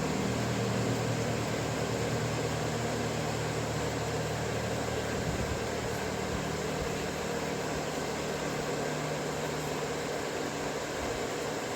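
A small electric motor running steadily with a hiss over a low hum; the hum shifts slightly about halfway through.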